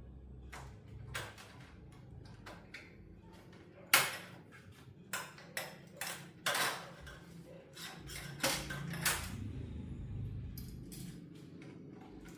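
Irregular clicks, clinks and knocks of hand tools and small hard parts being handled, loudest about four seconds in, with a cluster of clinks in the middle, over a low steady hum.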